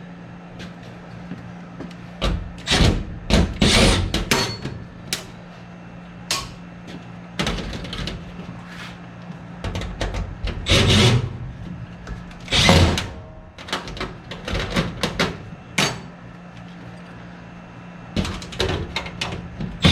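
Hand tools and parts being handled as things are taken apart: irregular knocks, scrapes and clatter in scattered clusters.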